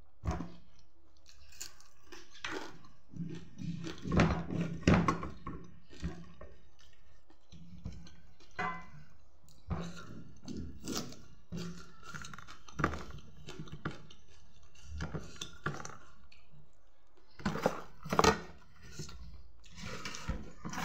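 A person chewing food close to the microphone while eating with her fingers, with irregular crunches and wet mouth clicks, loudest about four to five seconds in and again near eighteen seconds.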